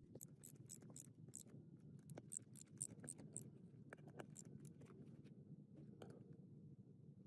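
Near silence with a low hum and faint, irregular small clicks and ticks, denser in the first few seconds and sparser after.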